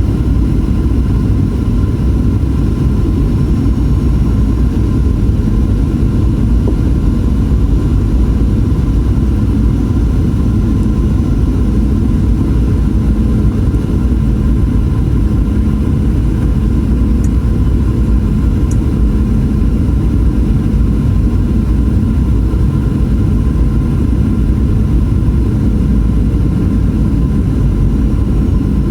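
Steady low rumble of a Boeing 737-800's cabin, heard from a passenger seat as the aircraft taxis after landing, its CFM56-7B engines at low power. A few faint steady tones ride over the rumble.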